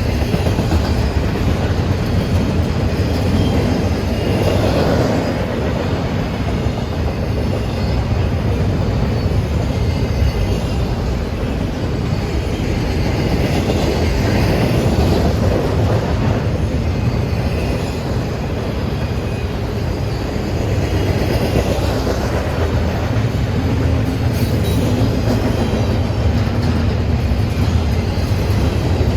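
Freight train rolling past, a steady, loud rumble of wheels on the rails that lasts the whole time with slight swells.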